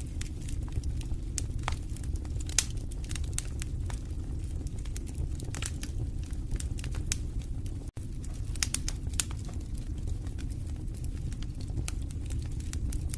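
Wood fire in a fireplace crackling: irregular sharp pops and snaps over a steady low rumble of the flames. The sound cuts out for an instant about eight seconds in.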